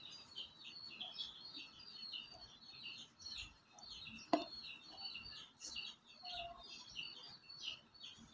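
Birds chirping faintly and continuously, short high chirps repeated about three times a second, with a single sharp knock about four seconds in.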